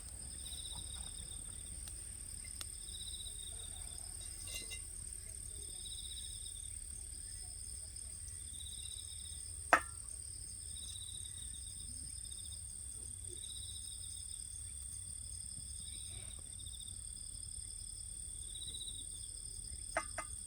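Insects singing outdoors: a steady high whine with a pulsing trill that repeats about every second and a half. A single sharp snap about halfway through, and a few small clicks near the end.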